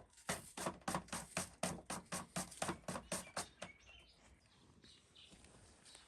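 A run of regular knocks, about three a second, that stops a little past halfway, followed by faint bird chirps.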